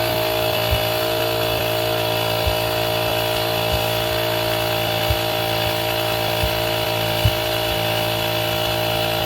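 Air compressor running steadily: a loud, even motor hum with a hiss, supplying air to blow a jumbo golf grip onto a club shaft. A few light knocks sound over it.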